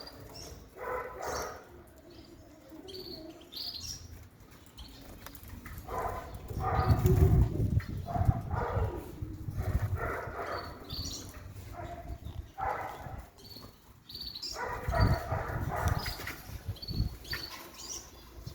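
Small cage birds bathing: bursts of wing-fluttering and splashing in the bath water, loudest twice, with short high chirps throughout.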